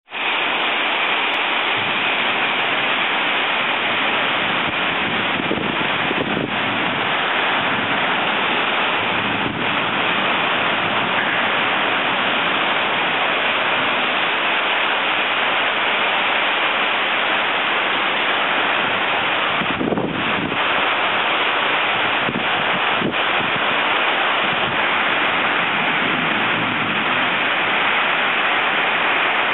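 Heavy thunderstorm rain pouring down, a steady loud hiss.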